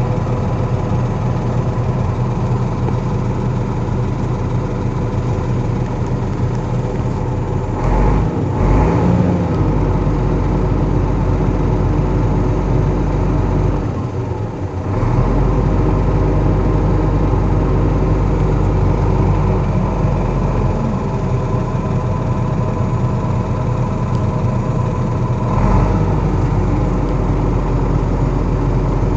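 Iveco engine idling steadily, with short changes in its note about 8 seconds in and again near the end, and a brief dip in level around the middle.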